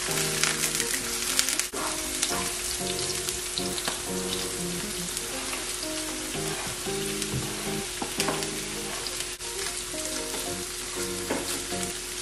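Mixed vegetables (peas, corn, carrots) sizzling in a frying pan over a gas flame as they are stirred with a spatula; about halfway through, chopped ham is tipped in and stirred through. Soft background music plays underneath.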